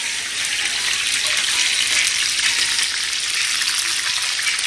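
Chicken pieces frying in oil in a skillet: a steady sizzle with small crackles.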